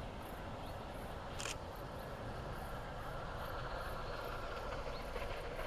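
Faint steady outdoor background noise, with one short sharp sound about a second and a half in.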